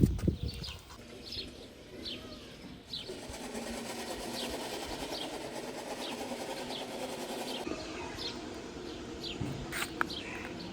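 A bird repeating a short, high, falling call about every two-thirds of a second. A dense, low rattling sound runs under it from about three seconds in to nearly eight seconds, and there is a single thump at the very start.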